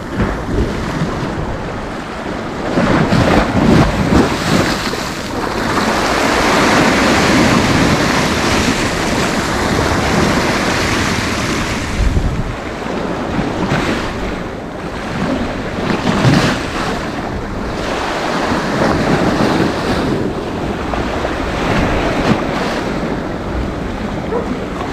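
Sea waves breaking and washing up a sandy beach, swelling and easing in long surges, with wind buffeting the microphone.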